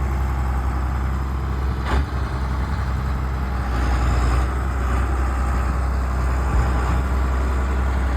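Tractor engine running steadily with a deep, even hum, and a single short knock about two seconds in.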